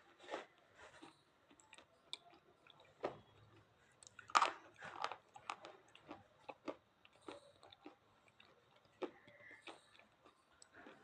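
Slate pencils being bitten and chewed: irregular sharp crunches with short gaps between them, the loudest about four and a half seconds in.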